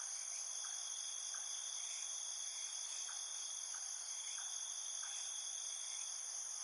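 Steady, high-pitched insect chorus of crickets trilling without pause, with a few faint soft ticks now and then.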